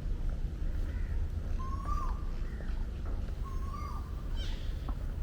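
Birds calling: a short call that rises and then drops sharply repeats about every two seconds, with fainter higher chirps from other birds, over a steady low rumble.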